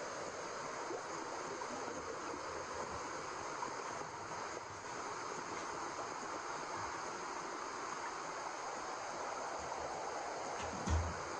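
Steady white noise, an even rushing hiss like running water. There is one short, low thump near the end.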